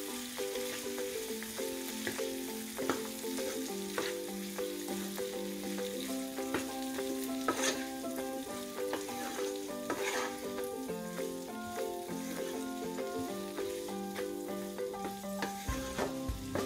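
Chicken and sliced onion sizzling in a hot oiled non-stick pan while a wooden spatula stirs and scrapes them, its strokes heard as short scuffs over the steady frying hiss. Soft background music with sustained notes plays under it, a deep bass coming in near the end.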